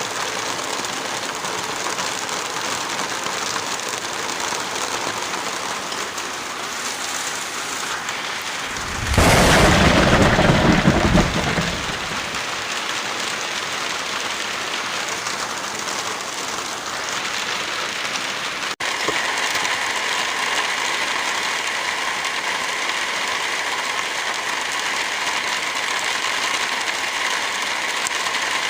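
Steady heavy rain, with a loud rumble of thunder about nine seconds in that lasts about three seconds. Near the end of the first two-thirds the sound cuts out for an instant, and the rain carries on with a slightly different, brighter hiss.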